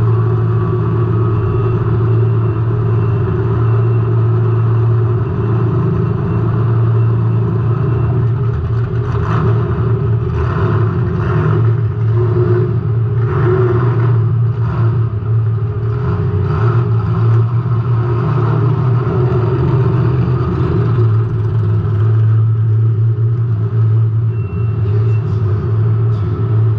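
Race car engine running at a fairly steady speed, heard from an on-car camera. About a third of the way in, a stretch of rushing noise and clatter comes in over it for several seconds.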